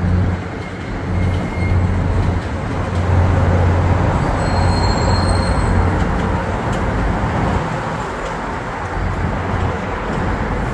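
MBTA commuter rail train rumbling steadily as it pulls away on the tracks, with a low drone that fades after about six seconds.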